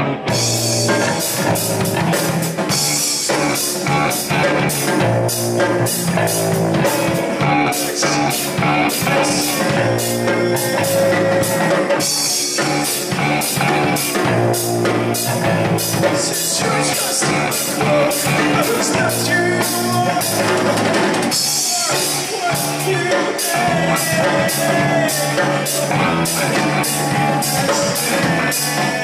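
A live rock band playing: drum kit with a steady beat, electric guitar and some singing, loud and distorted.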